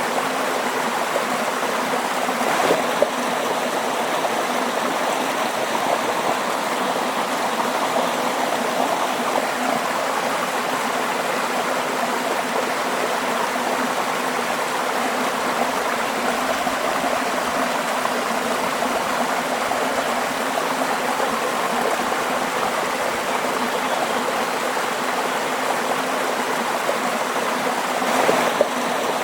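Running water, like a stream, flowing with a steady, even rush. It briefly swells and splashes louder about three seconds in and again near the end.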